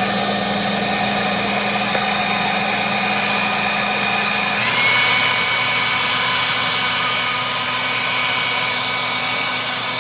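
Leaf blower running steadily at a loud, even pitch, stepping up in speed and pitch about halfway through.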